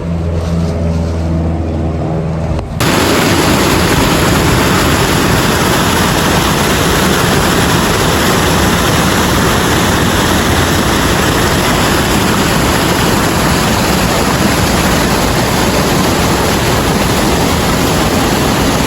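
A steady low humming drone gives way abruptly, about three seconds in, to a loud, even rushing noise that holds steady.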